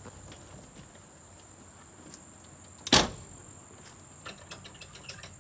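A Land Rover Series II's door shutting with one loud thump about three seconds in, followed by a few light clicks and knocks. A steady high cricket drone runs underneath.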